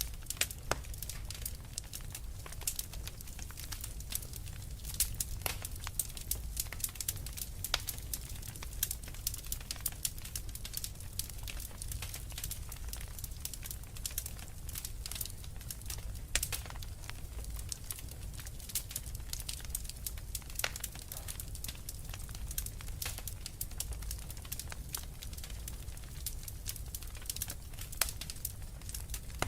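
Wood fire crackling in a fireplace: a dense, irregular stream of small sharp pops and snaps over a steady low rumble of the burning logs.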